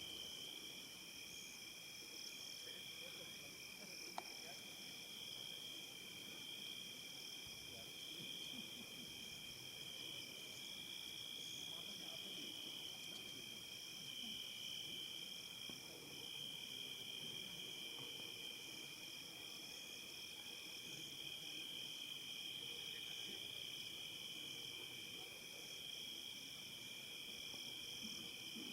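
Evening insect chorus of chirping crickets, a steady high-pitched trilling in several overlapping pitches. There is a single faint click about four seconds in.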